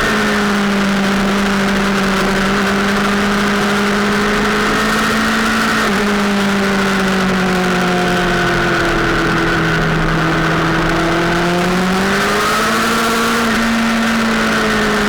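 Sportbike engine running hard under load, its note held high and steady with slow sags and one short climb and drop near the end, over a rush of wind noise.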